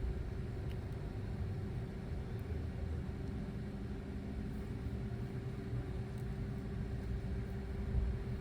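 Vacuum cleaner running steadily, a constant motor hum over a low rumble.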